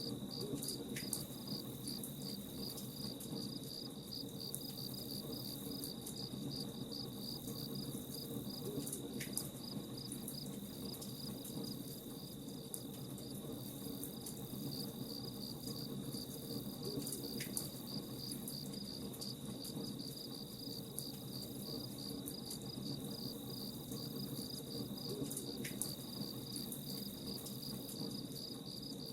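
Crickets chirping in a steady, rapid, evenly pulsed trill, over the faint scattered crackle of a campfire.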